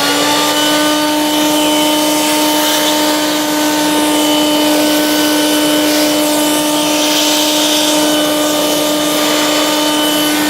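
Hoover Quik Broom Encore S2551 stick vacuum's two-speed motor running steadily on its low speed, a constant hum and whine over the rush of air, with the on-board hose attached.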